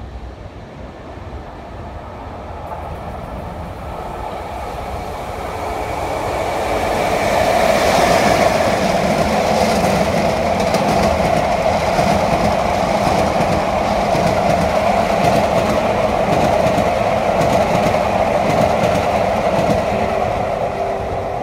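Train of new Sotetsu 20000 series cars, being delivered on their own wheels behind a locomotive, running through a station: a steady rumble of wheels on rails with clicking over the rail joints. It grows louder over the first eight seconds as the train comes up and then holds steady as the cars pass.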